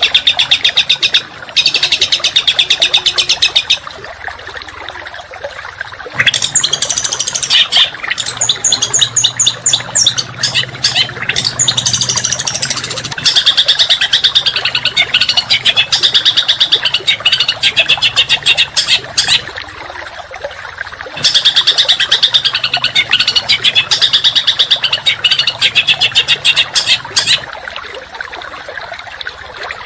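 A songbird singing dense, harsh rapid-fire trills, the tight, rough 'tembakan' phrases of a masteran song recording. The trills come in long bursts of several seconds with brief pauses between them.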